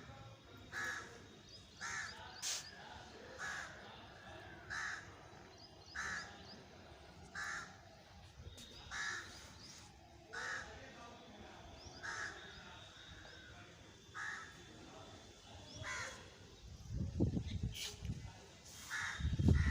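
A crow cawing over and over, a short call roughly every second and a half. Near the end, loud low rumbling bumps come in.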